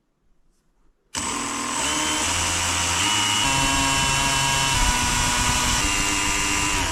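Electric power tool motor starting about a second in and running steadily under load, its pitch shifting in small steps, then stopping abruptly near the end.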